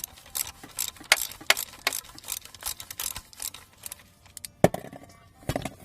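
Socket ratchet clicking, about three clicks a second, as a 13 mm nut is unscrewed from the battery-cable terminal on the starter; a sharper knock about four and a half seconds in.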